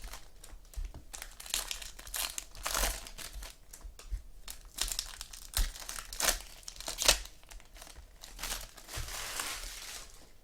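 Foil trading-card pack wrappers crinkling and tearing as packs are opened by hand, in irregular bursts.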